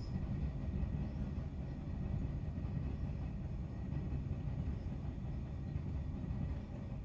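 Steady low rumble of electric commuter trains running on the elevated Sanyo Main Line, a JR West 117-series Sun Liner among them.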